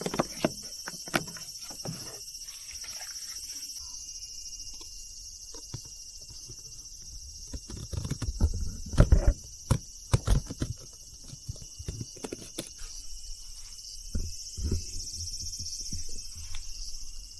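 Irregular knocks, taps and clatter of objects being handled, with a loud cluster about halfway through, over a steady high-pitched hum.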